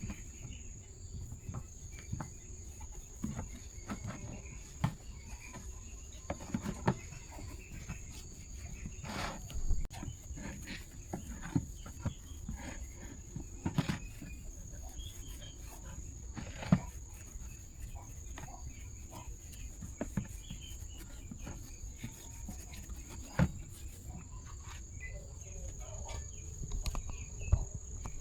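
A steady high cricket trill runs underneath, with scattered irregular clicks and knocks of parts and tools being handled during the repair work.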